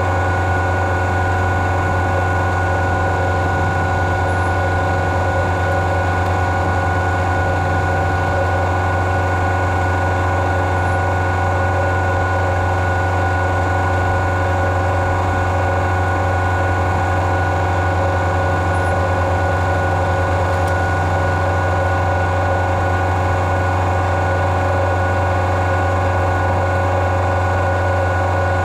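Engine of the farm machinery spreading chicken litter, running at a steady speed: a constant low drone with several steady whining tones above it, unchanging throughout.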